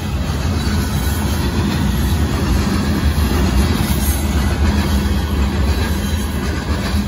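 Loaded gravel hopper cars of a Union Pacific freight train rolling past over a grade crossing: a steady rumble of steel wheels on the rails.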